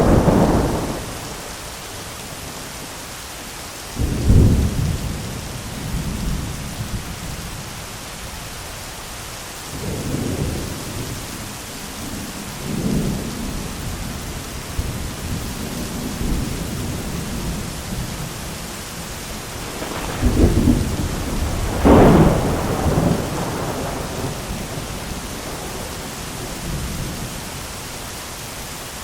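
Thunderstorm with steady heavy rain. A sharp thunderclap comes right at the start, rolling thunder rumbles about 4, 10 and 13 seconds in, and a louder crack and rumble comes at about 20 to 23 seconds.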